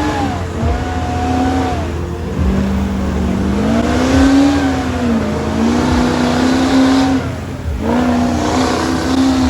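A truck engine revving hard, its note rising and falling several times, with a brief sharp drop in the engine sound near the end.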